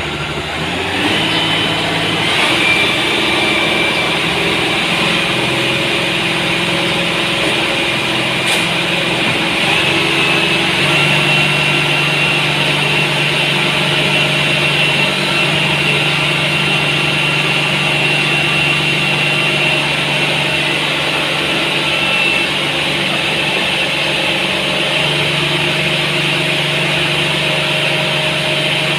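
Motor grader's diesel engine running steadily, with a high whine over it whose pitch steps up and down a few times.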